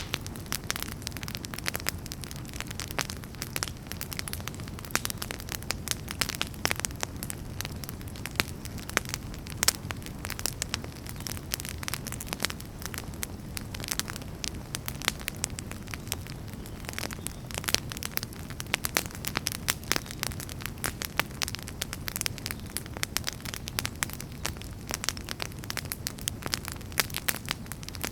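Wood fire crackling in a fireplace: a steady low rumble of burning with many sharp, irregular pops and snaps.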